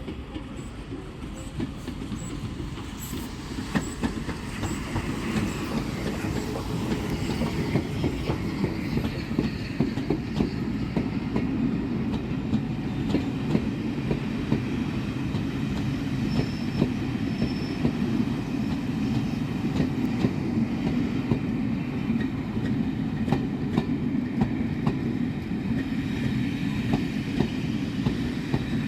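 A train running along the track, its wheels clicking over rail joints, growing louder over the first several seconds and then holding steady.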